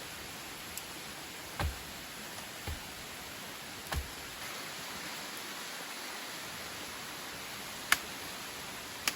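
Steady, even rush of a waterfall, with a few soft low knocks in the first four seconds and two sharp clicks near the end.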